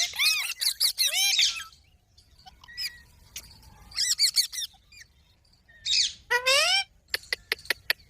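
Green parrots (rose-ringed parakeets) calling in several bursts of quick, rising-and-falling chirps, with a fast run of short sharp clicking notes near the end.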